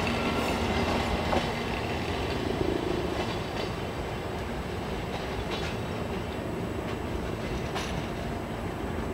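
Train of vintage brown passenger coaches rolling away along the tracks: a steady rumble with scattered clicks of wheels crossing rail joints, slowly fading as it recedes.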